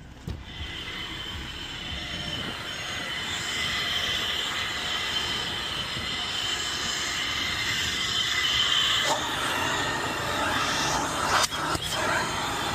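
A steady high-pitched whine with a rushing hiss, like a motor moving air through a hose or nozzle. It starts suddenly, grows a little louder, and changes about nine seconds in.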